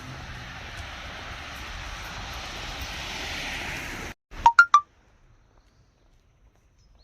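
Steady outdoor noise that swells slightly and then cuts off abruptly. About half a second later come three quick, loud electronic beeps at differing pitches, followed by near silence.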